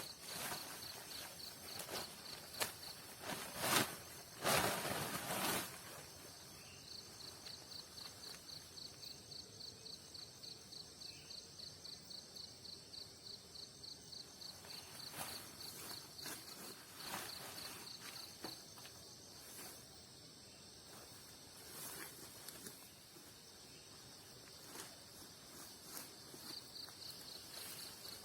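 Night insects in the forest, one of them, likely a cricket, giving a high, rapid, evenly pulsed chirp that stops for a while and starts again near the end. A few louder rustling or crunching noises come early on, the loudest about four to five seconds in.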